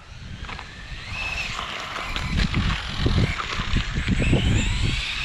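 Arrma Vendetta RC car's brushless electric motor whining faintly, rising in pitch in the second half as the car speeds up, over wind rumbling on the microphone.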